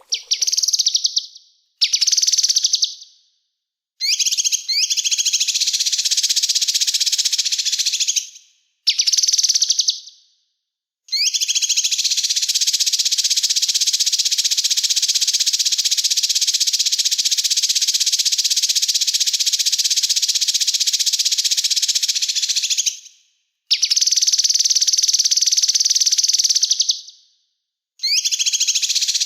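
Small songbird singing a fast, dense, high-pitched chattering song in bursts split by short pauses. One unbroken stretch in the middle lasts about twelve seconds.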